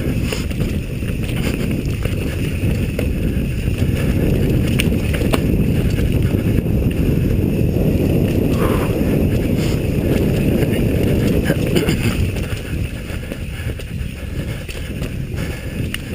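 Wind buffeting the microphone together with the low rumble and rattle of a mountain bike descending a rough, rocky trail, with a few sharp knocks from the bike over the ground.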